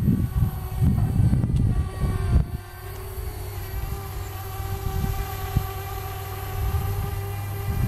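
Parrot Bebop quadcopter's propellers giving a steady whine that comes in clearly about two seconds in and holds at an even pitch. At the start it sits under a low rumble of wind on the microphone, which then drops back.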